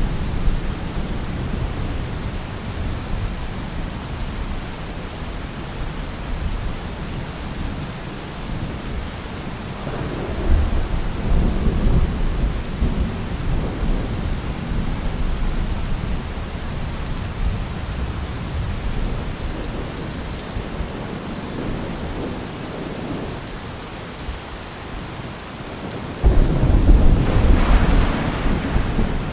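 Thunderstorm: steady rain with low rolling thunder, a rumble swelling about ten seconds in. A sudden loud thunderclap breaks in near the end.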